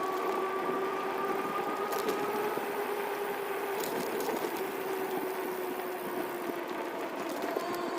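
Electric bike motor whining steadily at a near-constant pitch while riding, over a steady wash of tyre and wind noise.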